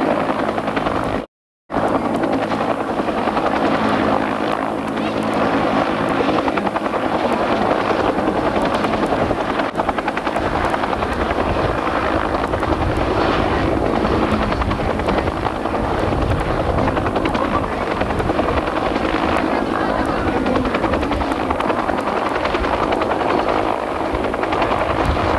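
Military helicopter running steadily, a continuous rotor and turbine noise with a fast chopping beat. All sound drops out for a split second about a second and a half in.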